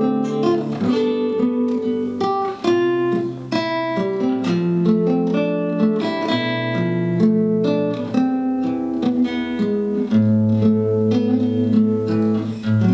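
Acoustic guitar playing the instrumental outro of a song: a steady run of plucked notes and chords, with a chord struck near the end that is left ringing.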